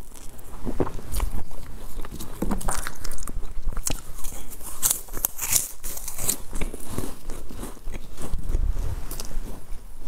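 A person crunching and chewing dry, brittle brown sticks close to a clip-on microphone, with many sharp crackles.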